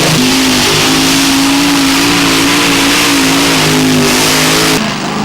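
Competition pulling tractor's engine running loud at high, fairly steady revs, its pitch wavering slightly. The sound cuts abruptly to a quieter one near the end.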